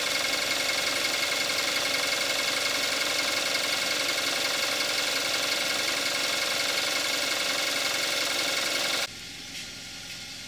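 2014 Kia Forte5's 2.0 GDI four-cylinder engine idling warm at about 41,000 miles, a steady dense mechanical running sound. About nine seconds in it cuts off abruptly, leaving a much quieter steady background.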